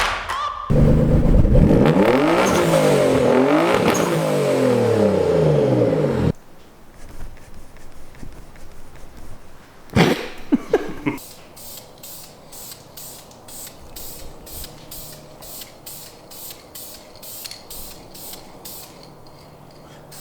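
A car engine revving up and down for about six seconds, then cutting off. After that a much quieter stretch, with a sharp knock partway through and a faint, even ticking, a little more than one tick a second.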